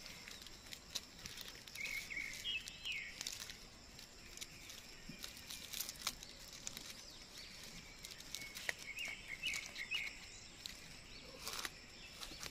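Outdoor ambience with a bird calling in two short bursts of chirping, about two seconds in and again near nine seconds, among scattered clicks and rustles.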